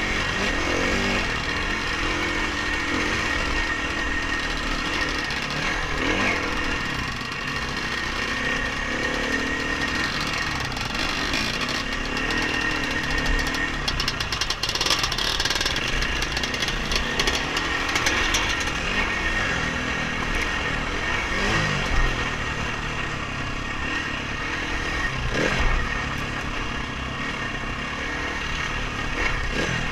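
Two-stroke or four-stroke dirt bike engine revving up and down as the bike is ridden hard over rough trail, with occasional sharp knocks and rattles.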